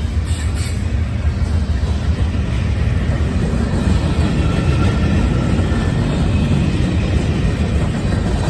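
CSX freight train rolling past close by: a steady, loud rumble of locomotive and cars on the track, with a faint high wheel squeal partway through.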